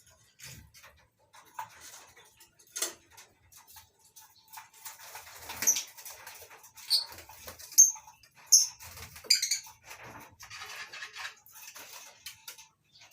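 A colony of lovebirds chattering: a scatter of short, sharp, high-pitched chirps and squeaks with clicks among them, growing busier and louder about five seconds in.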